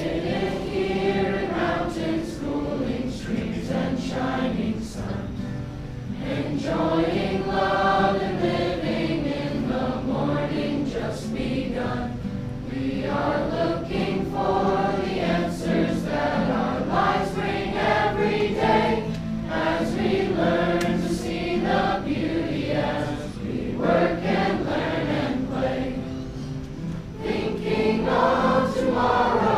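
Music: a group of voices singing together in harmony, the melody rising and falling over steady held low notes.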